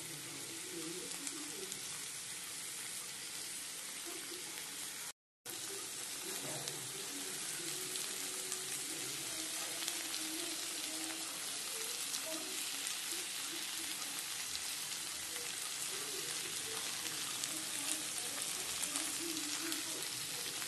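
Potato and green bean sabzi sizzling steadily with fine crackles as it fries in the pan. The sound cuts out completely for about half a second around five seconds in.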